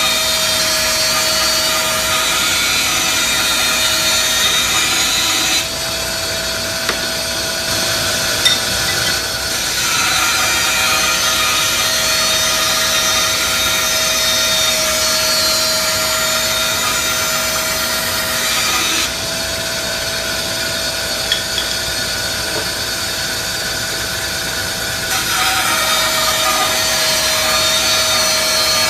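Rikon 10-305 10-inch bandsaw running and cutting through wood, a steady whine over the rasp of the blade. The sound drops a little twice and comes back as the load on the blade changes.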